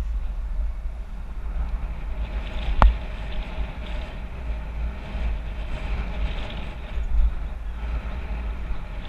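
Wind buffeting the microphone of a bike-mounted action camera while cycling, a steady low rumble with riding hiss over it, and a single sharp knock about three seconds in.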